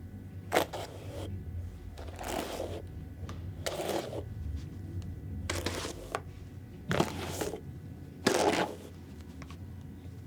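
Short rustling, scraping handling sounds, six of them about every second and a half, over a steady low hum.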